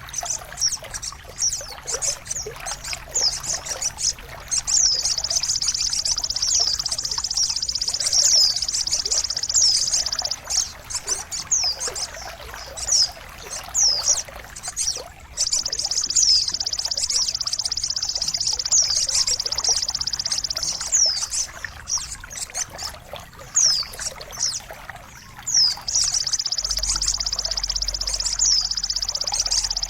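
Steady trickling, splashing water under a recorded songbird masteran track: a dense, high trill that comes and goes, with sharp falling whistled notes repeated throughout. A low hum comes in near the end.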